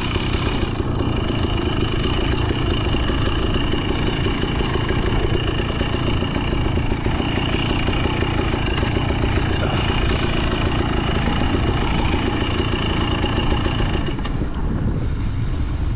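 Two-stroke KTM 300 XC TBI dirt bike engine running steadily at low revs, close to idle, with no big throttle blips.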